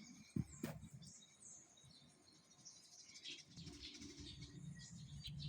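Faint, scattered high bird chirps, with a couple of sharp knocks about half a second in.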